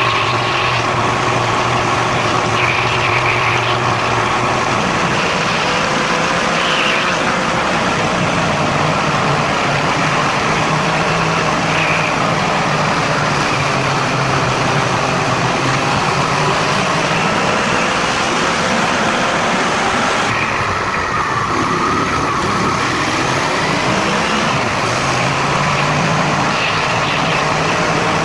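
Car engine and road noise while driving, with the engine note shifting now and then, played back at one and a half times normal speed.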